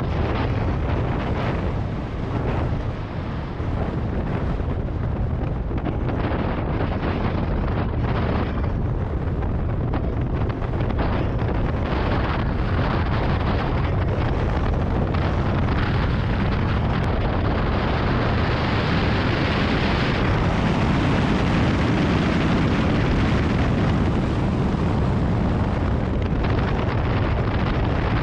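Strong wind buffeting the microphone: a continuous loud rumble that swells and eases with the gusts.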